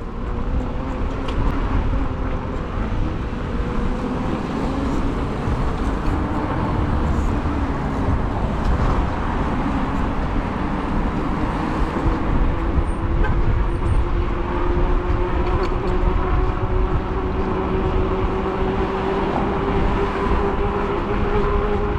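Riding on an e-bike: wind buffeting the microphone and road rumble, with a steady whine that slowly climbs in pitch.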